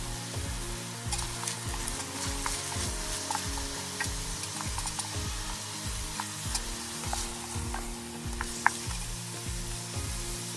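Food sizzling and frying in a pot over a campfire while being stirred, with scattered small crackles and one sharp pop about eight and a half seconds in.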